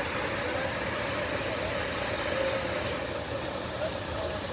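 Steady rushing of water gushing from a sheared-off fire hydrant, with a faint steady hum underneath.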